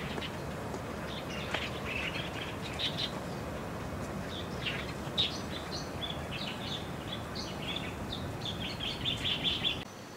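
Small birds chirping, many short high calls overlapping over a steady background hiss, growing busier toward the end before cutting off abruptly.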